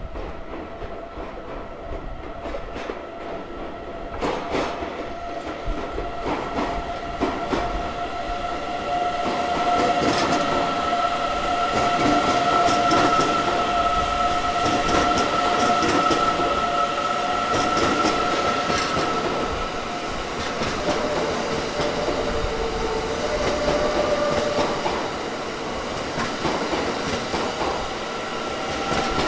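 A train running past on the tracks, its wheels clattering over the rail joints. Steady high-pitched tones ride over the noise, and it grows louder about a third of the way in, then eases off near the end.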